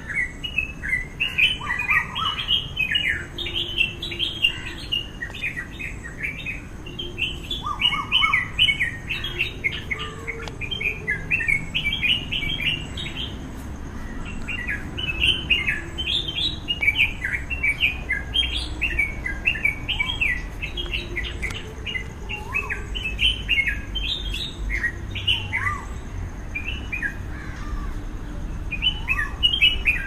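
Many small birds chirping and calling at once, short overlapping notes in a busy, unbroken chorus, over a steady low rumble.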